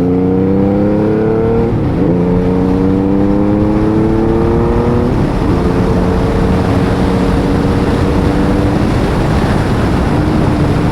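Honda Valkyrie 1500's flat-six engine accelerating through the gears: its pitch rises, drops at a gear change about two seconds in, rises again, drops at another change about five seconds in, then holds steady. The engine has been freshly rebuilt after hydrolocking.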